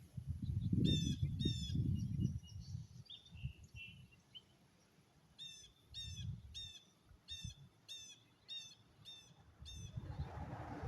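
A bird calling in quick series of harsh, down-slurred notes, about two a second, in two runs. There is low rumbling under the first couple of seconds and a rushing noise near the end.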